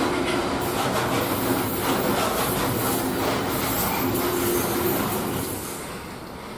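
Container freight train wagons rolling past on the rails, a steady loud running rumble of wheels on track that dies away near the end as the last wagons go by.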